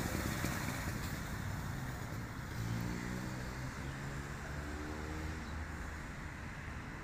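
Diesel engine of a 2013 Dacia idling steadily, its pitched hum swelling for a moment around the middle.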